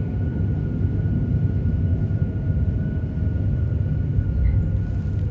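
JR Hokkaido 731 series electric train car MoHa 731-109 running, heard from inside the car: a steady low rumble with a thin steady whine above it. The traction motor on the car's Otaru-end bogie gives off an abnormal roar like an old nose-suspended (tsurikake) motor.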